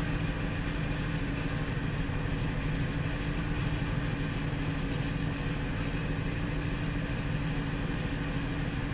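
2002 Ford Explorer engine idling steadily. It is running lean, which the mechanic suspects is a fuel pressure problem.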